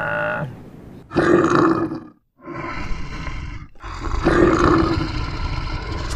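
Animal roars: two loud, rough roars, the first about a second in and the second about four seconds in, with a quieter rough stretch between them.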